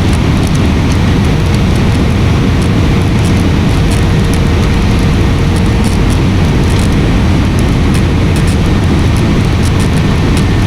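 Steady roar of jet engines and rushing air heard inside an airliner's cabin during descent in turbulence, with a faint steady hum running through it.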